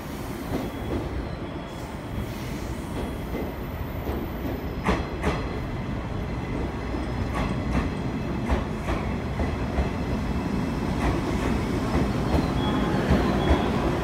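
JR East 719-700 series electric train pulling into the platform: a steady rumble that grows louder as it comes close, with clacks of the wheels over rail joints from about five seconds in.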